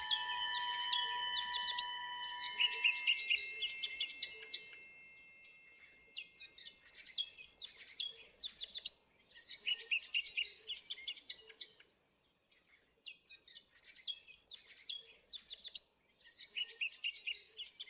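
A held music chord fading out over the first few seconds, then small birds chirping in quick repeated phrases, in bursts every second or two with short pauses between.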